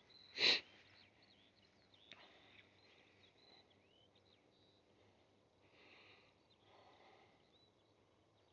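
Faint birds chirping now and then, with one short, louder rushing sound like a sniff about half a second in.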